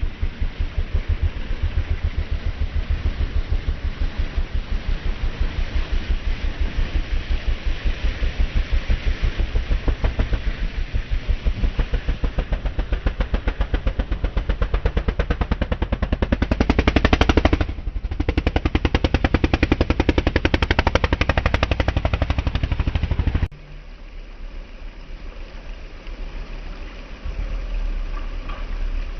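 An engine running close by with a rapid, even chugging pulse, loudest around two-thirds of the way through. It cuts off suddenly near the end, leaving a quieter rumble.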